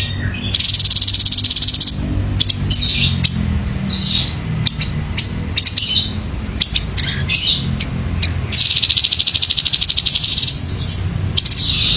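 Grey-headed babbler (tepus kepala abu) singing. Short high phrases come between two long, fast, buzzy trills, one starting just after the beginning and one near the end, over a steady low hum.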